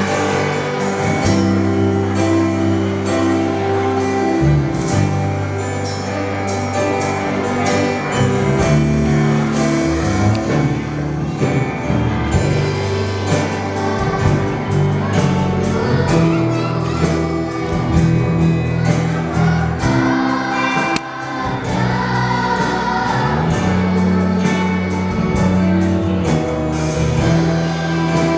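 Sunday-school children's choir singing a praise song in unison over band accompaniment: bass, a steady drum beat and guitar.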